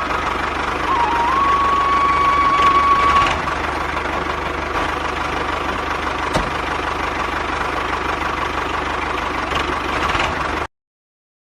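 A motor running steadily, with a held flute-like note over it for the first three seconds; the sound cuts off abruptly about ten and a half seconds in.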